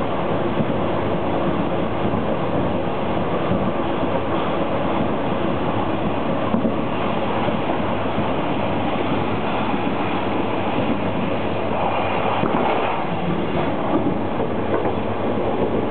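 Alstom LINT 41 diesel railcar running along the track, heard from inside the driver's cab: a steady engine drone mixed with rolling wheel-on-rail noise, with a few short clicks.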